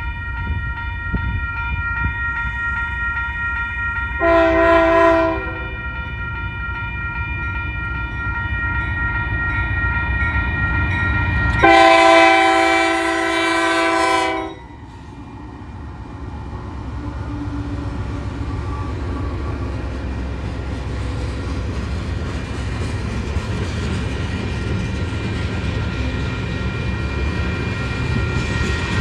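Union Pacific C44ACCTE diesel locomotive leading a freight train past: a short horn blast about four seconds in and a louder long blast near the middle, over the steady rumble of the engine, with a crossing bell ringing. After the horn the freight cars roll by with steady wheel noise.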